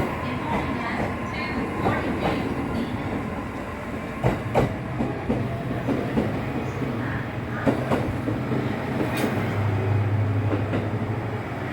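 Limited express train pulling out of the station, its wheels knocking irregularly over the rail joints above a steady low hum.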